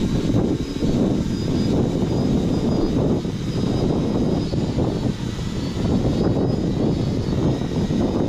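UpAirOne quadcopter drone descending to land under return-to-home, its propellers buzzing with a faint steady high whine from the motors over a low, fluctuating rumble.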